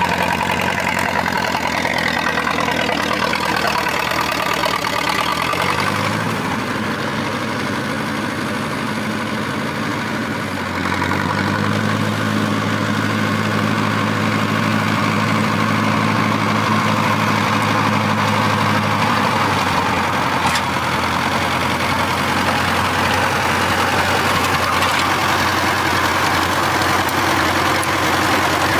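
Tractor engine running, its speed changing a few times: the steady engine note shifts after about six seconds, rises at about eleven seconds, and settles back down near nineteen seconds.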